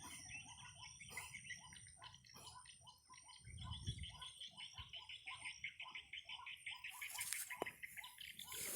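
White-breasted waterhen (ruak-ruak) call repeated over and over in a steady run of notes, played as a lure to draw the bird out. A rustling noise comes in near the end.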